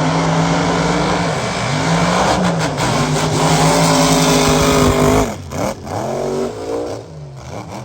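Mega truck's big engine running hard at high revs, its pitch dipping briefly a couple of times and climbing back. About five seconds in the sound drops off sharply and the engine tone wavers and fades.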